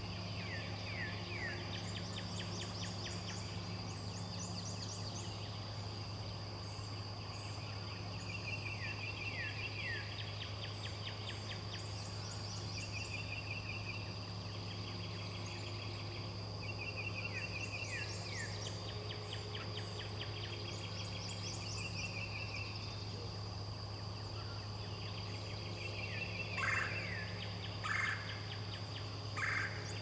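Small songbirds singing over and over, short trills and falling phrases repeated every few seconds, above a steady high-pitched drone and a low hum. Near the end, three short, louder calls stand out.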